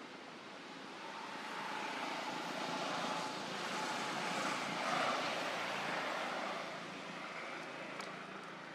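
A passing vehicle: its noise swells to a peak about five seconds in, then fades away.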